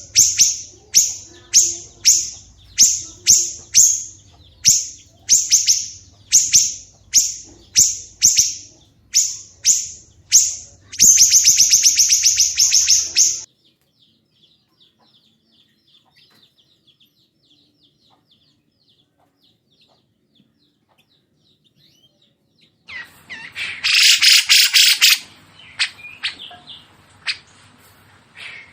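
Songbird calling: a sharp, high note repeated about twice a second for about eleven seconds, then a fast rattling trill. After a quiet stretch with faint chirps, a loud harsh burst comes about twenty-three seconds in, followed by a few scattered calls.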